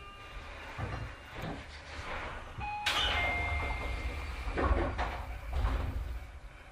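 Sliding passenger doors of a Tobu 30000 series electric train moving and shutting, heard from inside the car, with a low rumble from the train underneath.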